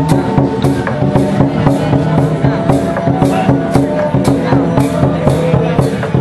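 Loud ritual percussion music: sharp strikes at a steady beat of about three a second over sustained low tones.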